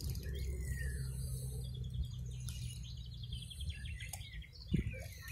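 Small birds chirping and singing, with a falling whistle near the start and a quick run of repeated high notes about halfway through, over a steady low rumble.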